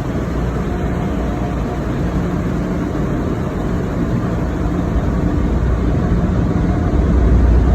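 Drive-through car wash air dryers blowing water off a truck, heard from inside the cab: a steady rushing noise with a heavy low rumble that grows louder near the end.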